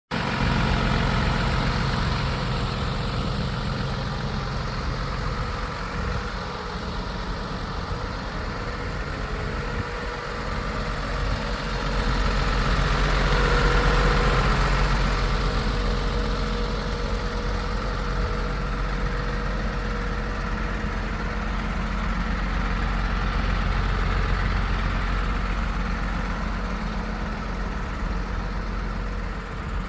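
MAN TGL 12.250 truck's six-cylinder diesel engine idling steadily. It grows louder for a few seconds around the middle.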